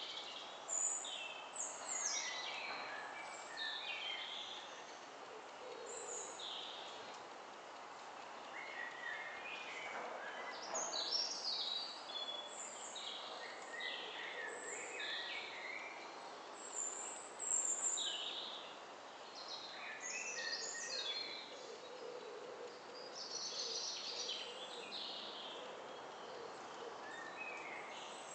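Several woodland birds singing and calling: short high chirps and phrases from different birds overlap throughout, over a steady background hush.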